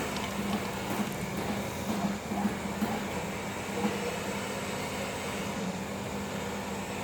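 Electric arc furnace equipment giving a steady hum with scattered irregular crackles.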